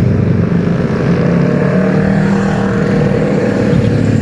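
Superbike engine running loudly at a steady, low engine speed, its pitch holding nearly level.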